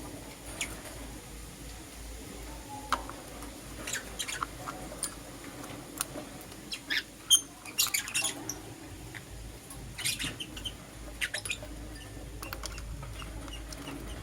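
Lovebirds chirping: short, high-pitched chirps in irregular bursts, busiest and loudest around the middle.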